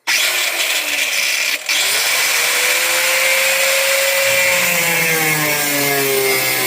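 Electric grinder cutting into the sheet-steel trunk floor of a car. It starts abruptly, cuts out for a moment about a second and a half in, then runs steadily with a whine that slowly drops in pitch as the wheel bites into the metal.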